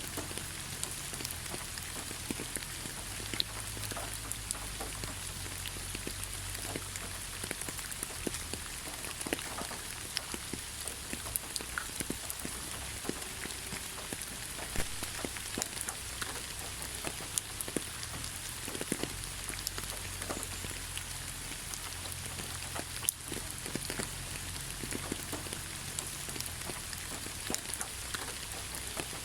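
Steady rain falling on leaves: a constant hiss with many irregular drop ticks and taps.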